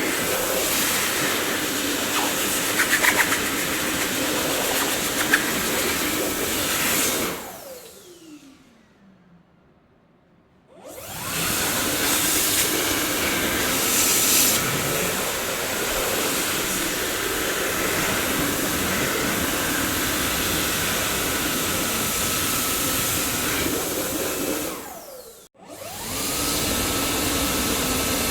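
Dyson vacuum cleaner motor running steadily. About seven seconds in it is switched off and winds down with a falling whine to near silence, then starts up again a few seconds later; near the end it cuts out briefly and starts again.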